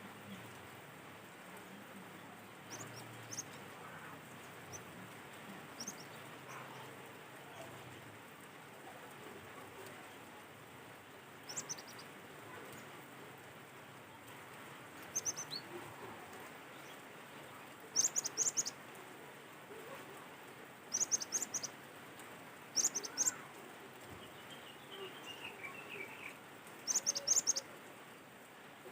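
Cinereous tit (gelatik batu) calling: short clusters of rapid, very high-pitched notes repeated every few seconds. A falling string of lower notes comes about 25 seconds in, over a steady background hiss.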